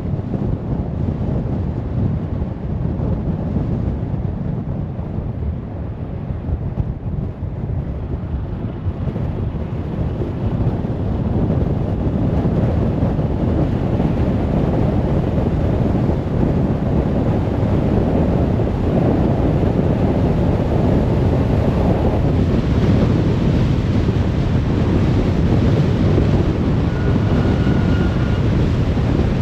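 Car travelling at speed on a motorway: a steady rumble of tyre, road and wind noise. It swells slightly partway through and grows hissier near the end.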